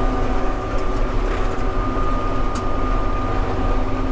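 John Deere 7600 tractor's diesel engine running steadily while pulling a John Deere 566 round baler, heard from inside the cab, with a thin steady whine over the low engine rumble.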